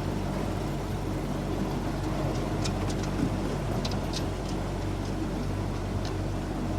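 A boat's motor running steadily under way, with the rush of water and wind over it and a few short high ticks in the middle.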